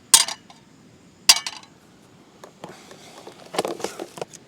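Metal camp cookware being handled: two sharp ringing clinks about a second apart, then a clatter of smaller knocks and rattles near the end.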